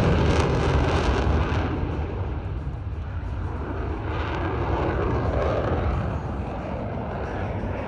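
Jet aircraft flying past at an airshow. Its engine noise is loudest at first and fades over the first few seconds, then goes on as a steadier, lower rumble.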